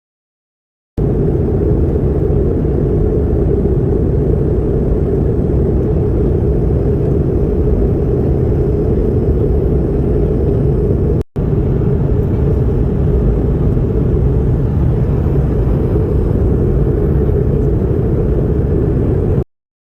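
Airliner cabin noise during the approach to landing: a steady, even rumble of engines and airflow heard from inside the cabin. It cuts out briefly about eleven seconds in and stops abruptly near the end.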